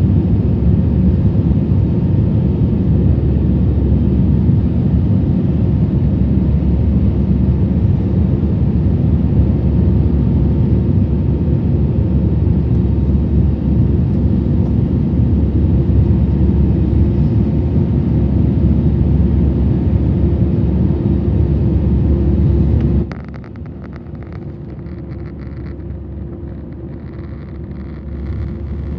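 Steady low roar of airflow and engine noise inside a jet airliner's cabin in flight. About 23 seconds in it drops abruptly to a quieter, thinner level.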